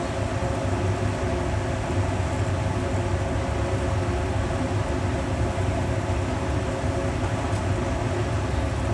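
Floured chicken pieces shallow-frying in a pan of hot oil, with a light sizzle over a steady low hum.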